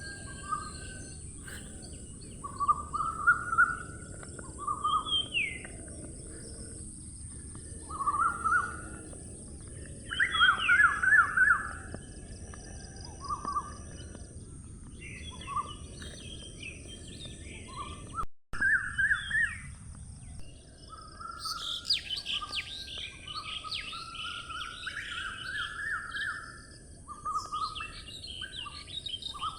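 Several birds singing and chirping in short, repeated phrases, busiest in the last third, over a steady low rumble and a thin high hiss.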